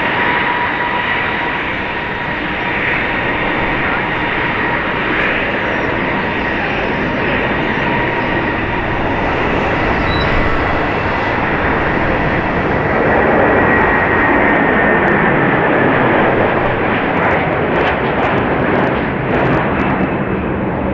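Jet airliner engines: a steady high whine over a broad rushing noise, swelling a little about thirteen seconds in.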